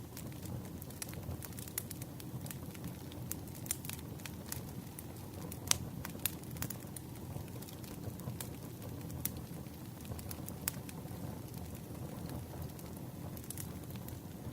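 Wood campfire crackling: irregular sharp pops and snaps over a steady low rumble of burning logs, with one louder pop near the middle.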